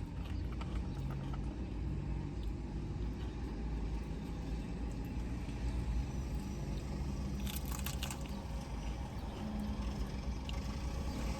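Steady low rumble of a car cabin with the engine idling, with faint scattered clicks and a brief rustle about eight seconds in.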